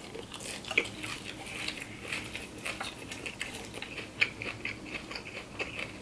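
Close-miked chewing of crunchy raw salad (shredded cabbage and greens), with many quick crisp crunches, and a metal fork picking at the salad in a glass baking dish.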